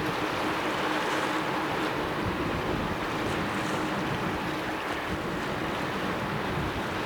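A car ferry passing: a steady engine hum that fades about halfway through, over a constant wash of wind and water noise.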